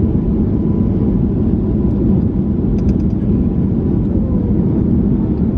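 Steady low rumble of cabin noise aboard a Boeing 737 MAX 8 on the ground after landing, with a faint steady whine and a few light clicks about halfway through.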